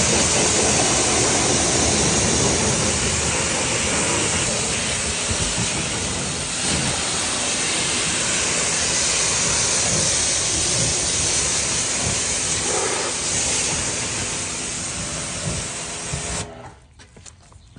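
Small electric pressure washer spraying water in a loud, steady hiss that cuts off suddenly near the end.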